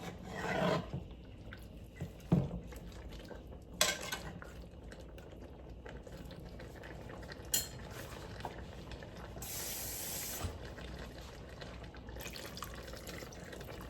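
Kitchen clatter of a cook at the stove: a utensil knocking and clinking against a pot a few times, over a steady low hum. About ten seconds in there is a brief hiss lasting about a second.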